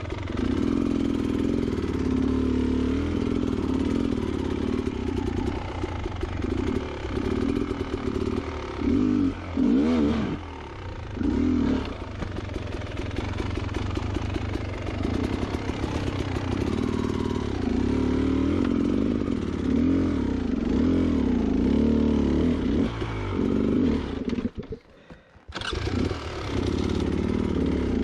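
Beta Xtrainer 300 two-stroke dirt bike engine running under load on the trail, its revs rising and falling as the throttle is worked. The sound drops out briefly for about a second near the end, then returns.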